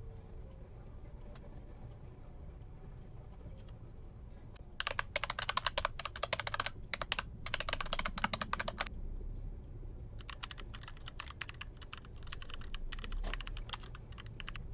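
Two runs of rapid, dense clicking, each about four seconds long, like fast typing. They sit over a steady low rumble.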